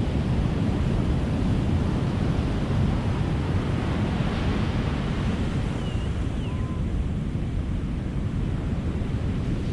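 Ocean surf breaking on a beach: a steady rush of waves and wash that swells in the middle, with a couple of faint brief pitched calls just after.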